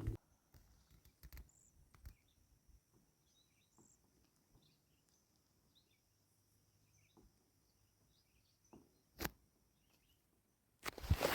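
Near silence with faint, scattered bird chirps and a few soft clicks, one sharper click about nine seconds in, and a short burst of louder rustling near the end.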